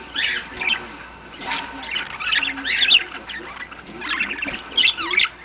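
Small pet parrots chirping and squawking in several quick bursts of warbling calls.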